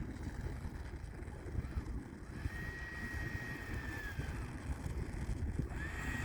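Wind gusting over the microphone with a low rumble, and a thin high whine from the RC T-45 Goshawk's 90 mm electric ducted fan at low power while the landed jet rolls and brakes. The whine holds for a couple of seconds, then falls away, and rises again near the end.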